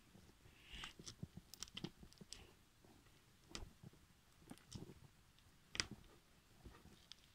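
Faint, irregular sticky clicks and small crackles of toy slime being squeezed and stretched by hand, with one louder pop near the end.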